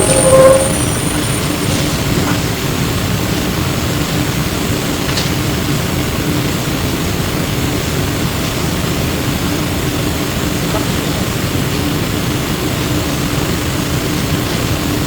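Inside a Flyer E902 electric trolleybus under way: a steady rumble of tyres and running gear with a low, steady hum. A short, loud squeak comes right at the start.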